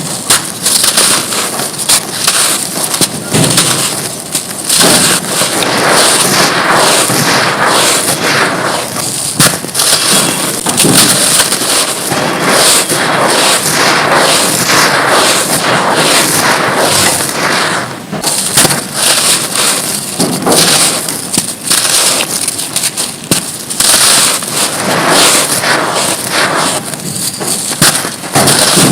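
Dry, gritty mud chunks being crushed and crumbled: a dense, continuous run of crunches and crackles.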